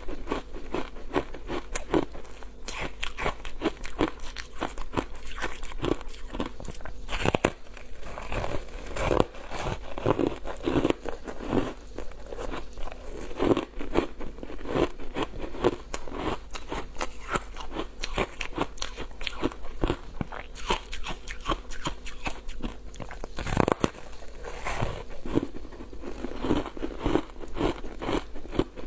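Close-miked biting and chewing of crunchy foam ice coated in matcha powder: a dense, continuous run of crisp crunches, with a few louder bites about 7, 9 and 24 seconds in.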